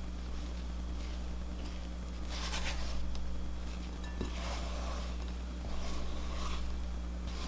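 Spatula scraping and folding macaron batter against a mixing bowl in a few irregular strokes, over a steady low electrical hum.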